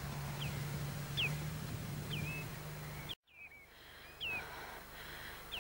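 Faint whistled bird calls, single short sliding notes repeated about once a second, over a low steady hum. The sound cuts out for about half a second a little past three seconds in, then the calls go on.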